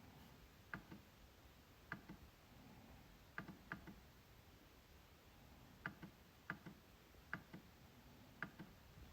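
MacBook trackpad being clicked: about eight short, sharp clicks at irregular intervals, several followed closely by a fainter second click.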